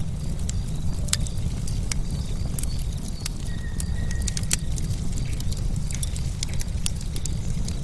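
Log bonfire burning: a steady low rumble of the flames with frequent sharp, irregular crackles and pops from the burning logs.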